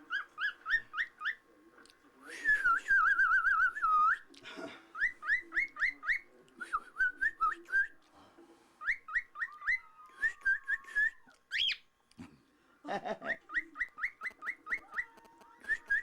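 Caged pet bird calling in runs of quick rising whistled chirps, about three a second, with a warbling trill a few seconds in and a couple of sharper, higher-pitched calls later on.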